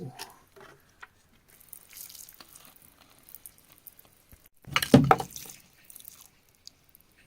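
Small clicks and wet, scraping handling sounds, with one louder burst of scraping and splashing about five seconds in.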